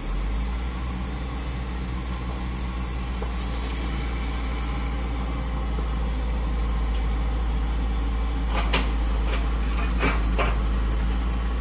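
Komatsu PC50UU-2 mini excavator's diesel engine stepping up to a louder, heavier run right at the start and holding steady. A few sharp metal clanks come about eight and a half to ten and a half seconds in.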